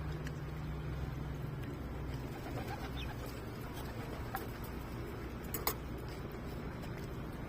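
Pigeons cooing over a steady low rumble, with a couple of sharp clicks about four and a half and six seconds in.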